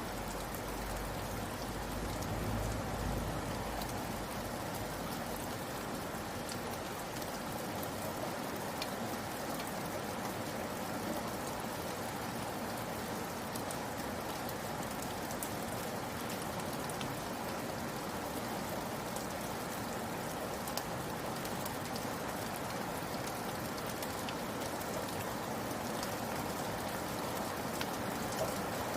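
Steady rain falling, an even hiss with many small drop ticks scattered through it. A low rumble underneath fades out in the first few seconds.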